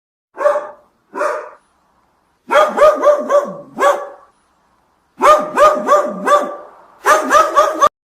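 A dog barking: two single barks, then three quick runs of several barks each.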